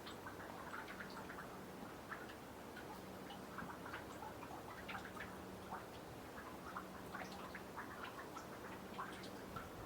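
Meltwater from melting snow dripping off a boardwalk into a nearly frozen pond: many faint, irregular little ticks, several a second.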